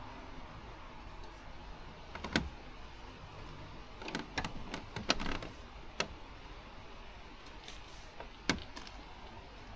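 Fishing tackle being handled at the bank: scattered sharp clicks and knocks, the loudest about two and a half seconds in and a quick cluster around four to five seconds in.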